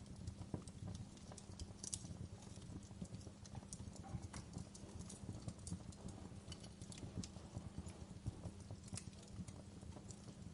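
Wood fire crackling in a fireplace: many irregular small pops and snaps, a couple of sharper ones, over a steady low rumble of the burning fire.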